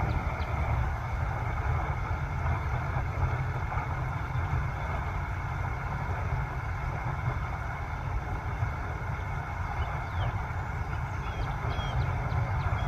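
Small waterfall splashing and rushing steadily, with a deep rumble under it. A few faint bird chirps come in over it in the last few seconds.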